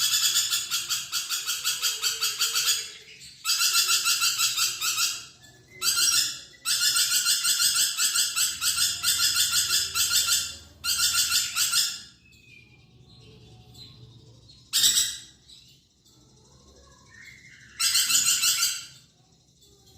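Lorikeet (perkici) calling in rapid, high-pitched trills, in bursts lasting from half a second to about four seconds with brief pauses between them. The calls are nearly continuous for the first twelve seconds, then come only as two short bursts separated by quieter gaps.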